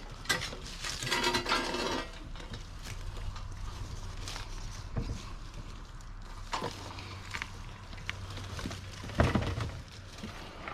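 Junk being handled and shifted: about two seconds of rattling and clattering, then a few separate knocks and bumps, the loudest about nine seconds in, over a steady low hum.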